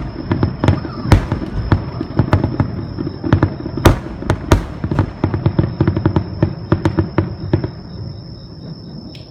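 Aerial fireworks going off in a rapid barrage of overlapping bangs and crackles, the loudest burst a little under four seconds in. The barrage thins out and fades over the last second or two.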